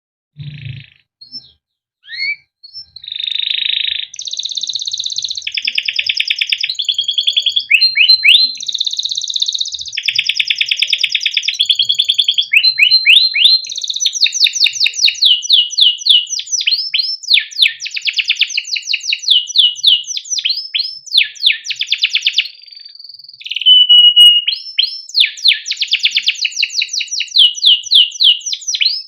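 Male domestic canary singing a long, nearly unbroken song, starting about half a second in. The song mixes fast trills and rolls with quick runs of repeated chirps and stretches of dense, buzzy notes.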